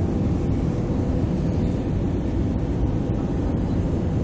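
Airbus A320 cabin noise: a steady low rumble of engines and airflow, with a faint steady hum over it.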